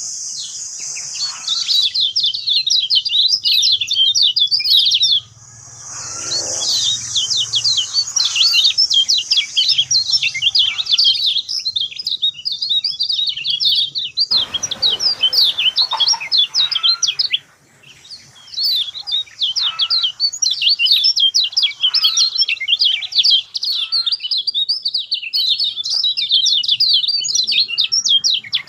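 Kecial kuning, a white-eye, singing a fast, unbroken chattering song of rapid high chirps, pausing briefly about 5 s and 17 s in.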